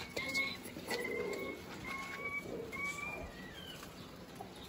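A bird calling in a string of short, clear, slightly rising notes, about one every half second to a second, that stop a little past three seconds in. A few light clicks are heard along with it.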